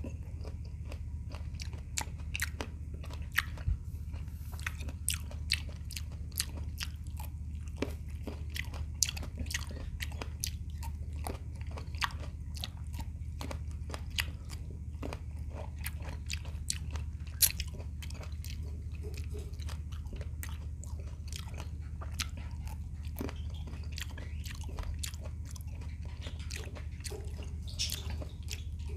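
A person chewing and biting red grapes close to the microphone, with many sharp mouth clicks at an uneven pace, a few a second, over a steady low hum.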